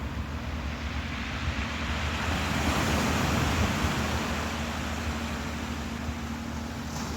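Ocean waves washing in, a surge that swells about two to four seconds in and then eases off, over a steady low hum.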